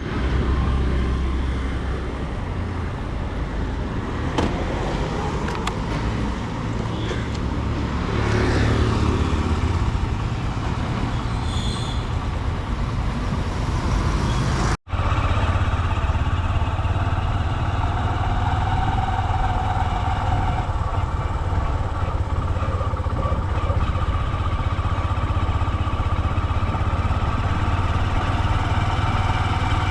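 Motor vehicle engine running steadily amid road traffic, with a vehicle passing by about nine seconds in; the sound drops out for an instant about halfway.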